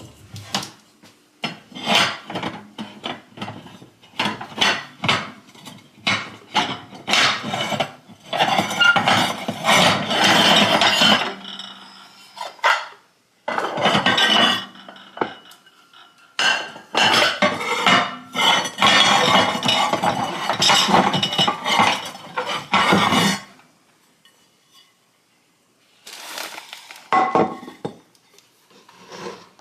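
Hard objects clattering and clinking in dense runs of knocks, stopping for a couple of seconds about twelve seconds in and again for about two seconds near the end.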